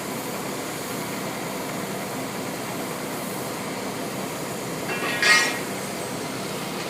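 Train passing on the line, a steady noise, with a brief high-pitched squeal about five seconds in.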